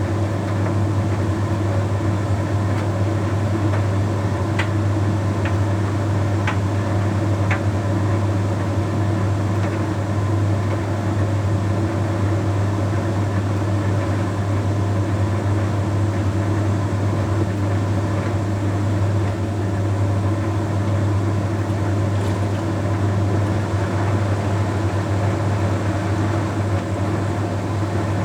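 Bosch Series 6 heat pump tumble dryer running late in its cycle: a steady low hum with an even whirr, and a few faint ticks about five to eight seconds in.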